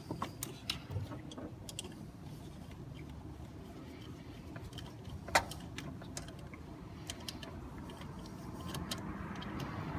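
Scattered light metallic clicks and clinks of bolts and hand tools being handled while mounting an AC compressor, with one sharper clink about five seconds in, over a steady low hum.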